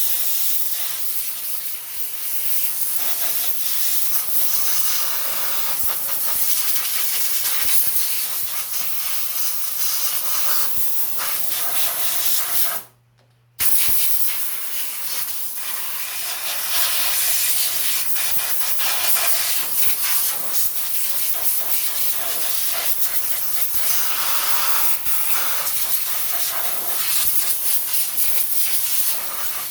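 Compressed air jetting from a blow gun, blowing loose dirt out from around the engine's starter: a loud, steady hiss that stops for a moment about 13 seconds in and then starts again.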